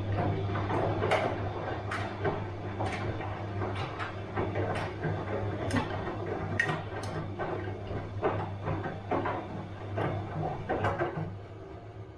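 Bosch washing machine running: a steady motor hum under a busy run of irregular clicks and knocks that dies down about eleven seconds in.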